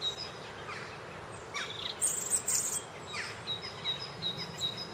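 Treetop ambience: birds chirping with repeated short high notes and a few quick falling calls, and insects, with a brief high-pitched buzz about two seconds in.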